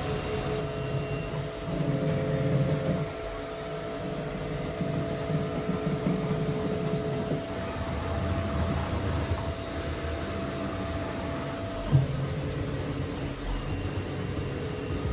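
ANCA FX5 Linear CNC tool grinder running: a steady mechanical whir with a few held tones over a low rumble that swells and fades. There is a brief knock about twelve seconds in.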